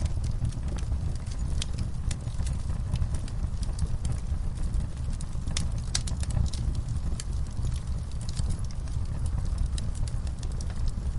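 Wood fire in a fireplace crackling and popping at irregular intervals over a steady low rumble of the flames.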